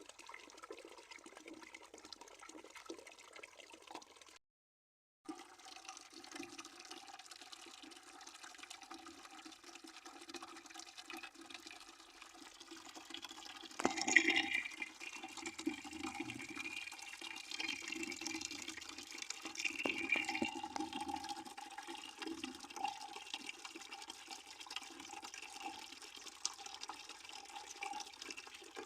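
Water running from a tap into a bucket, a steady splashing and gurgling with a faint held pitch. It drops out to silence for under a second about five seconds in, and grows louder about halfway through.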